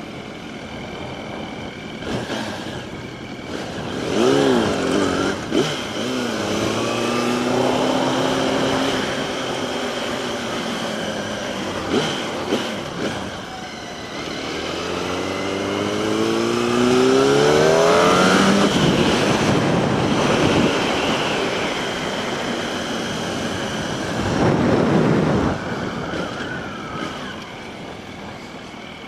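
Motorcycle engine pulling away and accelerating, its pitch climbing in several rising sweeps as it goes up through the gears, then easing off.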